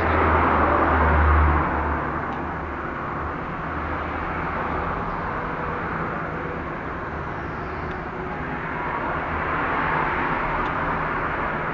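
CNC engraving machine running with a steady low hum and hiss, louder for the first couple of seconds and swelling again near the end.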